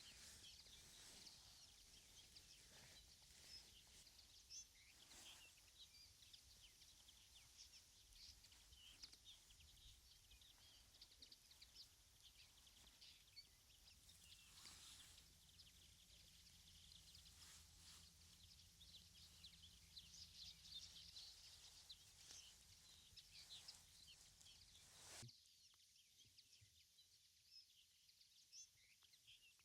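Faint birdsong: many short chirps and twitters from several birds over a low rumble that cuts off abruptly near the end.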